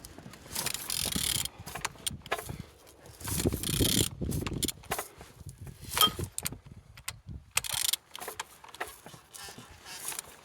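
A used engine being turned over by hand, its internals rotating freely: irregular metallic clicks, knocks and rattles rather than any running sound.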